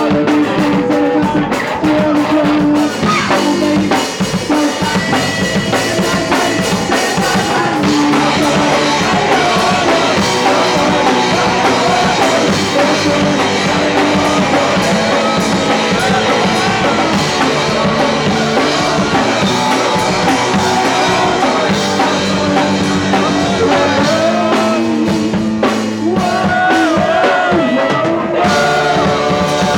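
Punk rock band playing live and loud: drum kit, guitar and sung vocals together.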